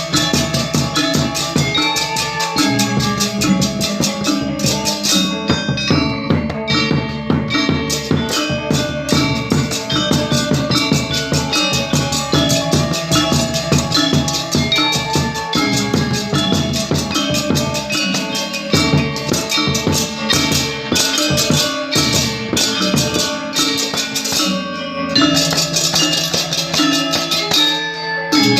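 Balinese gamelan ensemble playing: bronze metallophones and gongs struck in a dense, fast stream of ringing notes over drums, with a brief break near the end before the full ensemble comes back in.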